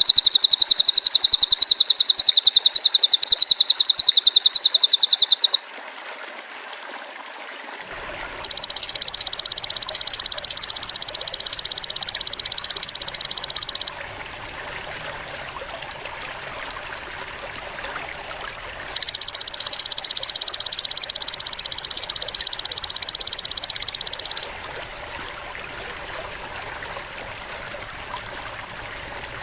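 Masteran recording of high-pitched cililin and belalang emas (golden grasshopper) calls, played in turns. A fast pulsing trill stops about five seconds in. Then come two separate steady, shrill buzzes of about five seconds each, with quiet hiss in the gaps.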